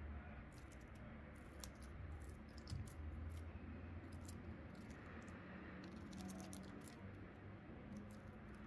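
Faint handling noises: scattered small clicks and crackles, thickest in the first few seconds and again past the middle, over a low steady hum.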